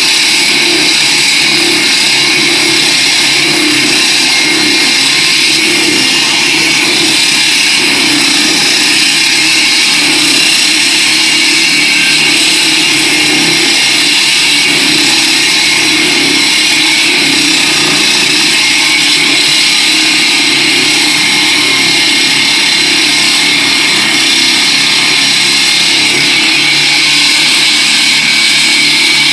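Concrete saw cutting through K300-grade concrete, running loud and steady with a high whine.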